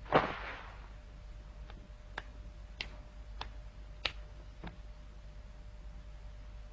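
A short soft swish, then a run of six faint, sharp ticks, evenly spaced at a bit more than one a second.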